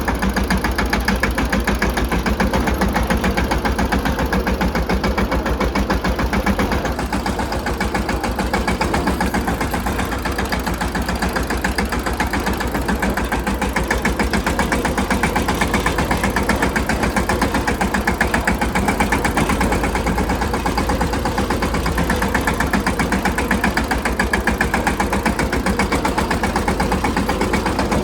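Mahindra Yuvraj 215 tractor's single-cylinder diesel engine running steadily, a fast even beat of exhaust pulses.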